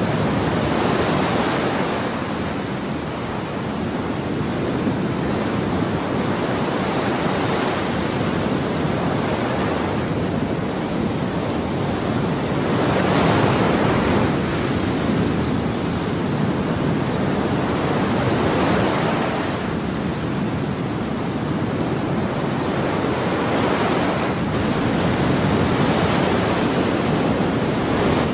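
Ocean waves breaking and washing on a shore, a continuous rush of surf that swells every few seconds, strongest about a third and two thirds of the way through.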